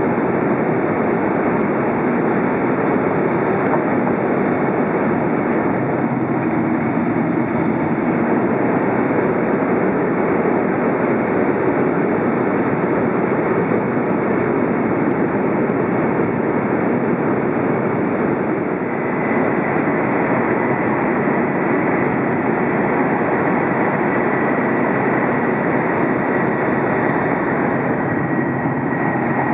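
Shinkansen train running at speed through a tunnel, heard from inside the passenger car: a steady rushing noise of wheels and air. About two-thirds of the way in, a faint high whine joins.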